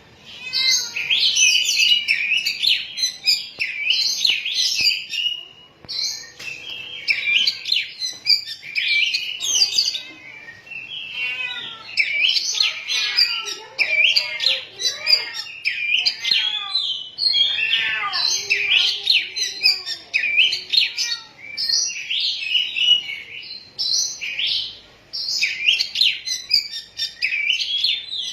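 Oriental magpie-robin (kacer) singing a loud, rapid warbling song of varied whistles and chattering notes, in long runs broken by short pauses. It is the continuous song that bird-song keepers call 'gacor' and 'ngerol', a sign of a bird in full song form.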